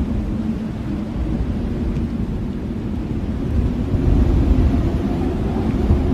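Strong blizzard wind blowing in a deep, rumbling rush with no let-up, gusting a little louder about four seconds in.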